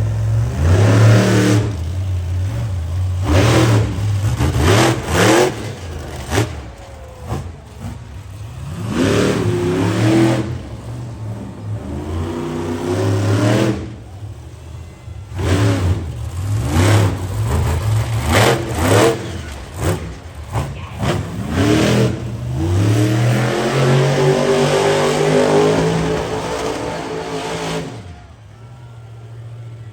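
Monster truck engine revving hard over and over, its pitch sweeping up and down with each surge, then settling to a quieter steady note near the end.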